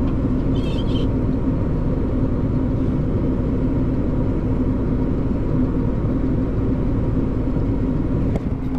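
Tractor engine running steadily under load while its PTO drives the grain cart's unloading auger, heard from inside the cab as a constant low drone with a steady hum. The cart is nearly empty, which sets it shaking from the PTO drive.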